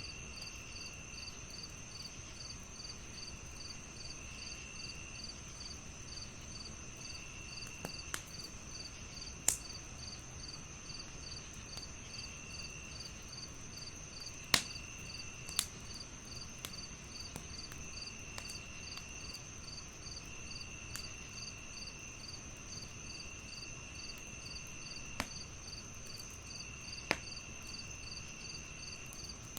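Crickets chirping: a steady high trill, a regular pulsing chirp, and a lower trill that starts and stops in bouts. Under them runs the low rumble of a wood fire, and sharp crackling pops ring out about half a dozen times.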